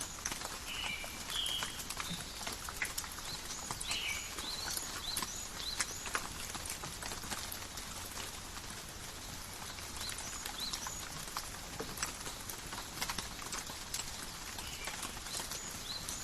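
Light rain in a forest, with a steady patter and many sharp separate drops and drips. Short bird chirps come in small clusters now and then.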